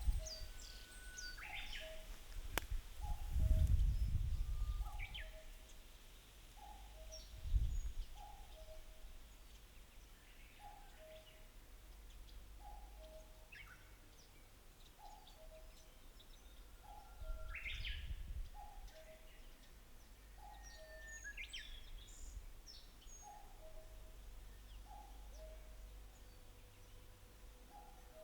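Wild birds singing in open marshland: one bird repeats a low two-note call about every second and a half, while other birds add scattered high chirps and trills. A few low rumbles come and go, and a single click sounds about two and a half seconds in.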